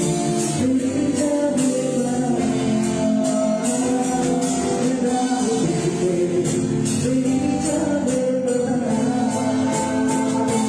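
A live band playing a Hindi film song, with a singer over held chords and a steady percussion beat.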